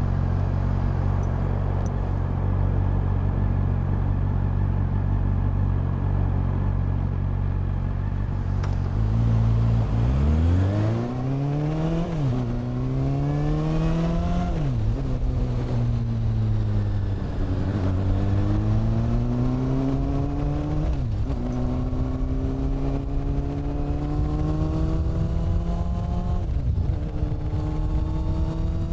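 Honda CB400 Super Four's inline-four engine idling steadily, then pulling away about nine seconds in and revving up through the gears, its pitch climbing and dropping back at each upshift. Partway through it eases off with falling pitch before accelerating again through further shifts.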